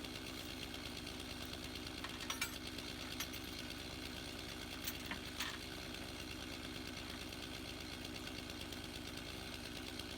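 A tractor engine running steadily at a low, even speed, with a few short sharp clicks or knocks about two and five seconds in.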